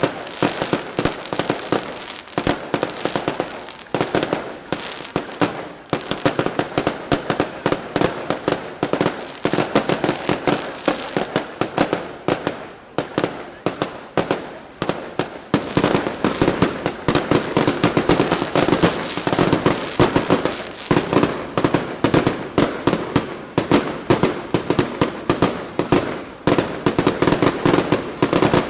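Daylight fireworks firing as a rapid, dense barrage of sharp bangs, many each second, with a few brief lulls, the heaviest run in the second half.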